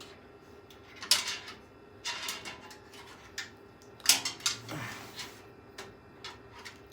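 Hard PC case panels and parts being handled, clattering and clicking: sharp knocks about one, two and four seconds in, the last the loudest, with lighter ticks between.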